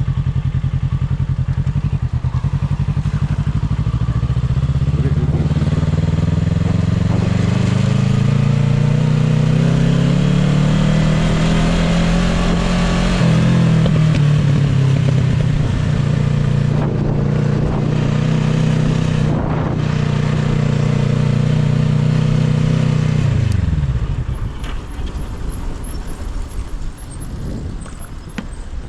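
Motorcycle engine running on the move, its pitch climbing steadily for several seconds as it accelerates, then holding steady. Near the end the engine note falls away suddenly, leaving quieter clattering.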